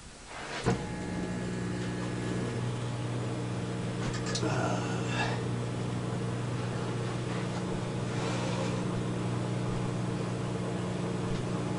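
A 600-watt microwave oven, powered from a 1500-watt pure sine wave inverter on 12-volt batteries, starts with a click under a second in and then runs with a steady hum. It keeps running without cutting out.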